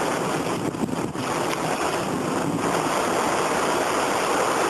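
Rain and wind of a thunderstorm squall line, a steady rushing hiss.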